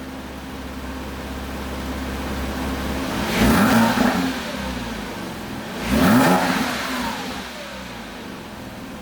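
2006 Porsche Cayman S (987.1) 3.4-litre flat-six on its stock factory exhaust, idling and then blipped twice. The two quick revs come about three and a half and six seconds in, each climbing and dropping back to a steady idle.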